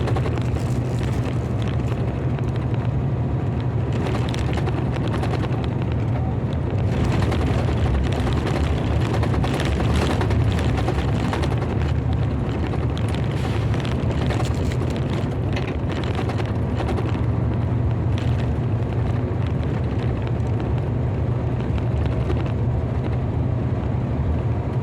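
Steady road and engine noise heard inside a moving car, a deep even drone with no breaks.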